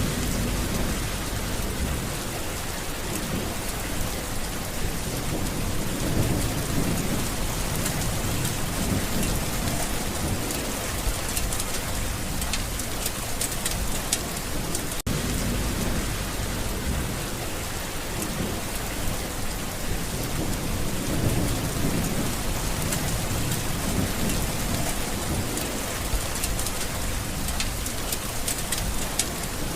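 Steady, heavy rain hissing and pattering, with low rumbles of thunder swelling twice.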